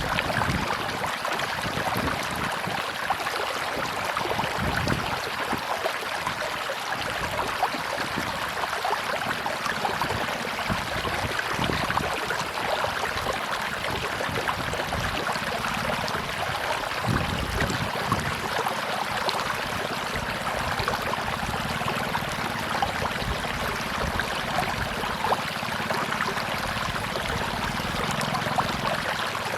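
River water rushing and gurgling over rocks in a steady, unbroken wash.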